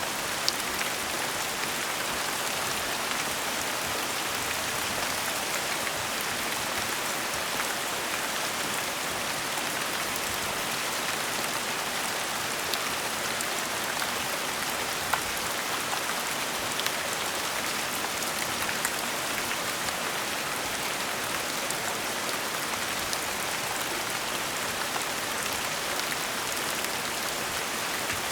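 Steady gentle rain: an even hiss of rainfall with scattered distinct drop ticks.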